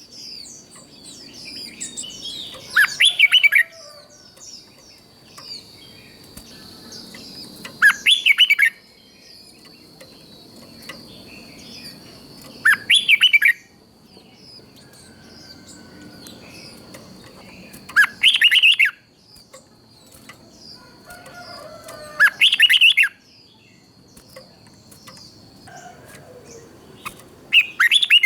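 Red-whiskered bulbul singing short, loud phrases about every five seconds, six in all, with fainter bird chirps between them. A thin, steady high-pitched whine runs underneath and stops about three-quarters of the way through.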